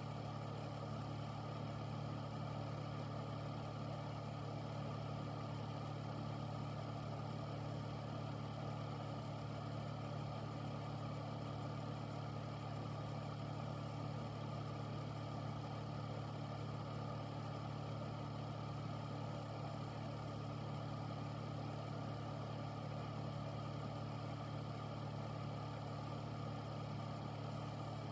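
Air filter fan running steadily: a low, even hum with a constant rush of moving air.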